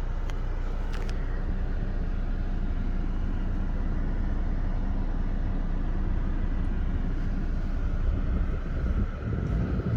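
A vehicle engine idling steadily, with a couple of light clicks about a second in and some uneven low rumbling near the end.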